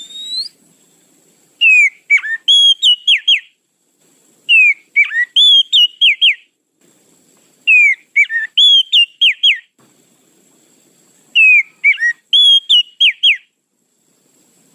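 Oriental magpie-robin (kacer) lure song: a short whistled phrase of quick falling and rising notes, repeated four times about three seconds apart in near-identical form, after a brief rising whistle at the very start.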